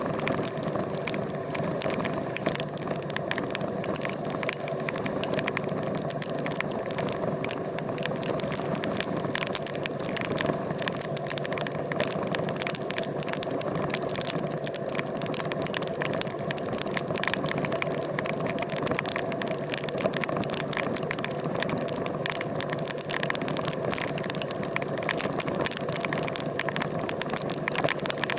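Motorcycle engine running steadily under way, with constant fine rattling.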